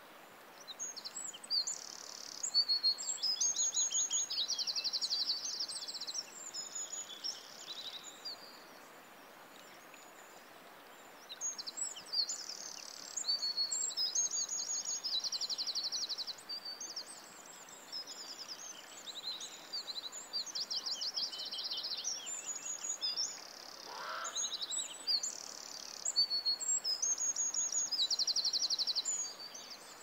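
A small bird singing in bouts of rapid, high trills and chirps several seconds long, with short pauses between them, over a steady hiss.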